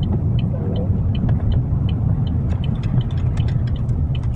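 Car driving on snow-covered roads, heard inside the cabin: a steady low road-and-engine rumble, with faint light ticks scattered through it.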